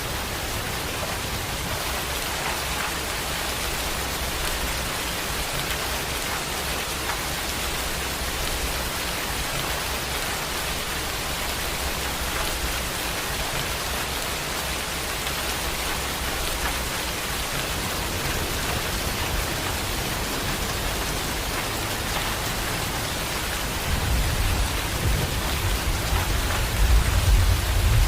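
Heavy rain pouring steadily. Near the end a low rumble of thunder builds and grows louder.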